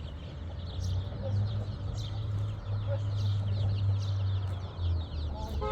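Many short bird calls, plausibly fowl clucking, over a steady low rumble.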